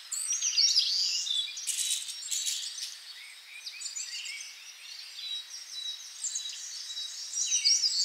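Small birds chirping and twittering in quick, high, repeated notes, busiest in the first couple of seconds and again near the end. A thin, steady, high tone runs through the middle.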